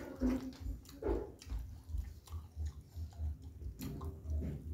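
A person chewing food close to the microphone in a steady rhythm of about three chews a second, with short wet mouth clicks.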